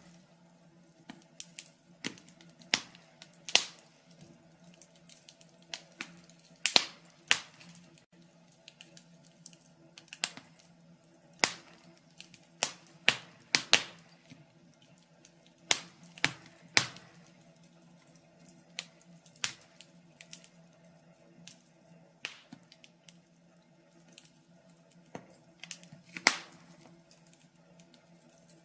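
Wood log fire crackling, with irregular sharp pops and snaps of varying strength, several louder cracks standing out. A faint steady low hum runs underneath.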